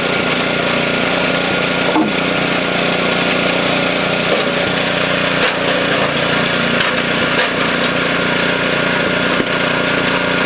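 Engine of a flywheel-type log splitter running steadily, keeping its heavy flywheels spinning, with a few short sharp knocks of logs being split and tossed.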